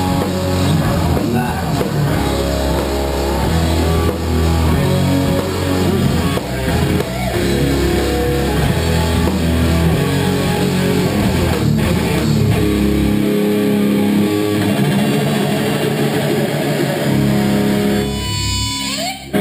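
A live rock band playing electric guitar and drums. The deepest notes drop out about two-thirds of the way through, and the song breaks off just before the end.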